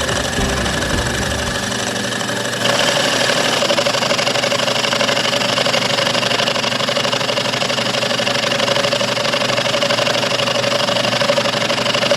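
Machine tool running steadily while cutting metal, with a constant whine over a dense mechanical noise. It gets louder and brighter suddenly about three seconds in.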